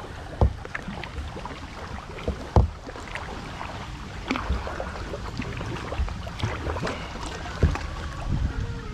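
Kayak paddling on a lake: a steady run of splashes and drips from the paddle blades over a low rumble, with a few sharp knocks, about half a second in, at two and a half seconds, and near the end.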